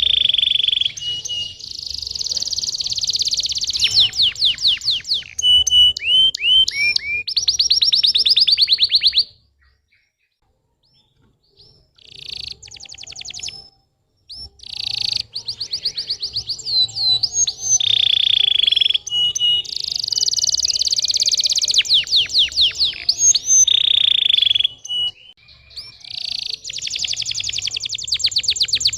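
Domestic canary singing in fast trills of rapidly repeated high notes and rolling phrases. About nine seconds in it falls silent for a few seconds, then the song resumes.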